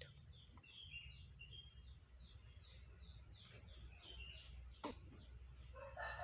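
Faint bird chirping: short, quick notes repeated about three times a second over a low steady hum.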